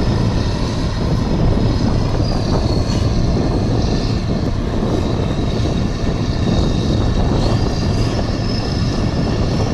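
Heavy tractor diesel engines of a Kirovets K-700 and a Challenger MT700 running hard under load, pulling a stuck trailer through mud. A steady engine rumble carries a high whine that drops in pitch about two and a half seconds in and rises again near the end.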